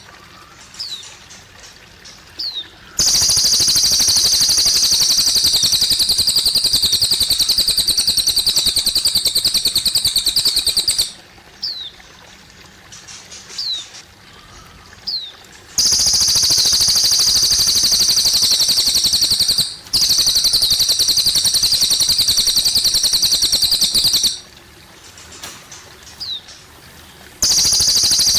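A cililin bird singing long, loud, rapid high trills, each run lasting about eight seconds, three times. In the pauses between runs there are short, thin rising chirps over faint trickling water.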